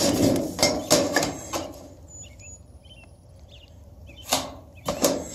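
Light knocks and clatter of hand tools handled against a sheet-metal pan: a quick run of sharp taps about the first second and a half, a quiet stretch, then a few more near the end.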